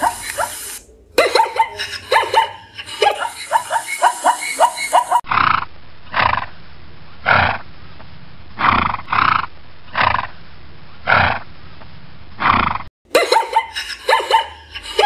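Zebras calling. A fast run of barking yelps, about five a second, fills the first five seconds and comes back near the end. In between are about eight separate, duller yelping calls, roughly one a second.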